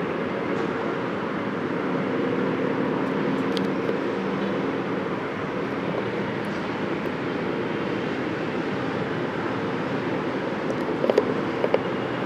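Emirates Boeing 777-300ER's GE90 jet engines heard on approach to land, a steady rumble with a faint drone. A few short clicks come near the end.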